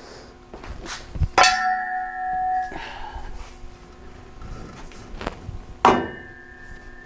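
Metal exhaust pipe clanging as it is handled, struck twice, about a second and a half in and again near the end, each strike ringing on for about a second, with lighter knocks between.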